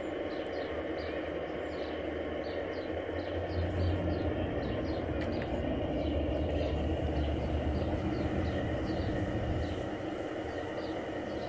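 Outdoor garden-scale model train running along its track: a steady mechanical hum that swells for several seconds in the middle, with a light, even ticking of about two to three a second.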